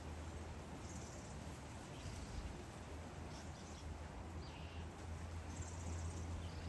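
Small birds chirping: a few short, high calls about a second in, in the middle and near the end, over a steady low hum and faint background hiss.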